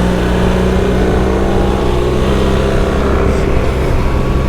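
BMW R1300GS boxer-twin engine running under way at a steady speed, over a steady rush of noise.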